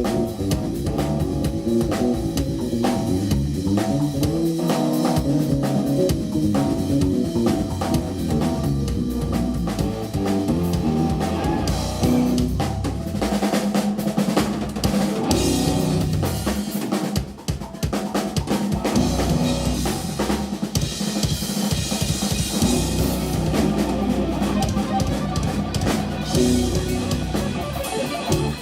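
Live instrumental jazz-rock played by a band, with the drum kit prominent (bass drum, snare and rimshots) alongside electric guitar and bass. It drops away briefly a little past halfway, then picks up again.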